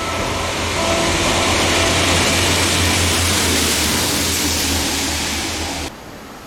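Diesel train passing close by: a loud rushing noise over a steady low engine drone, cut off suddenly about six seconds in.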